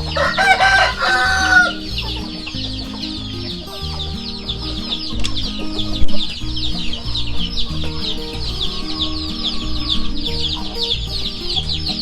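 A rooster crows once near the start, over a continual chorus of clucking and high chirping from the flock of chickens.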